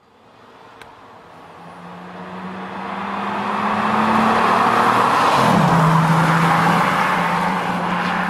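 Audi TT 3.2 V6 with a Milltek aftermarket exhaust driving, its engine note growing louder over the first few seconds. About five seconds in the pitch drops sharply, as at a gear change, and the engine then pulls on at a steady note.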